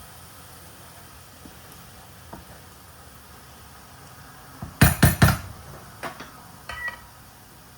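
Kitchen dishes and utensils clattering: a quick run of three loud knocks about five seconds in, then a few lighter clinks, the last with a brief ringing note.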